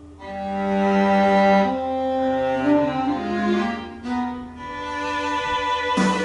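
Slow instrumental introduction on bowed strings, cello-like long held notes moving through a melody. A sharp plucked or struck chord comes in just before the end.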